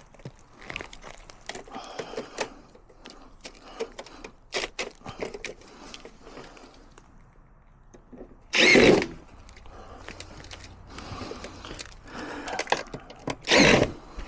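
Work noise from installing metal micro-mesh gutter guards: scattered clicks and knocks, and two loud half-second bursts, one about nine seconds in and one near the end.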